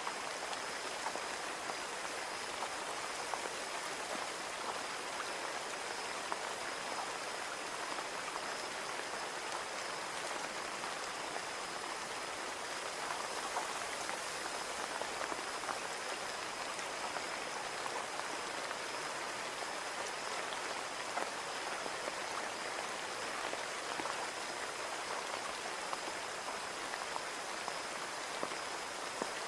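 Steady rain falling on a window pane: a dense, even patter of drops ticking on the glass.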